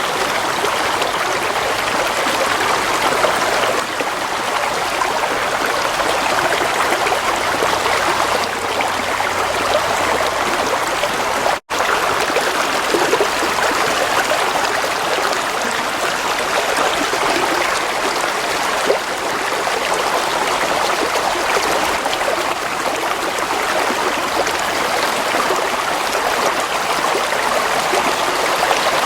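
Gentle flowing water running steadily, an even rushing wash, broken once by a momentary dropout a little over a third of the way through.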